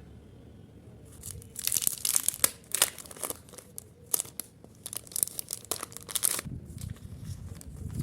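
Packaging being crinkled and torn open by hand: a run of sharp crackles from about a second and a half in until a little past six seconds, then softer, duller handling noise.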